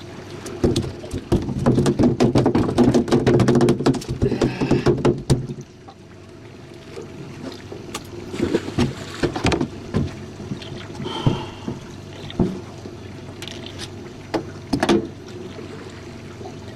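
Small jon boat on open water: a motor runs steadily underneath, with a dense burst of knocks and clatter against the hull for the first five seconds or so, then scattered single knocks.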